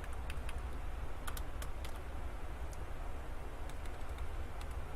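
Computer keyboard keys pressed irregularly: a quick run of keystrokes in the first two seconds, then a few scattered presses, over a steady low hum.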